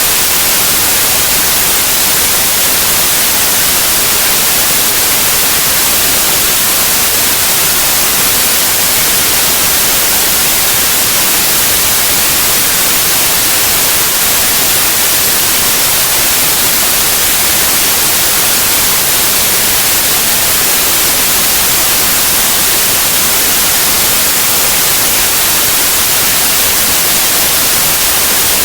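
Steady electronic white noise: an even, loud hiss, brightest in the highs, with no change at all.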